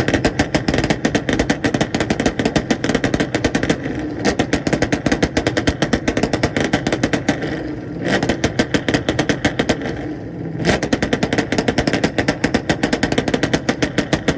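Chevrolet Camaro's engine held on a two-step launch limiter, the exhaust banging in rapid, even crackles. It comes in four long bursts with brief dips between them.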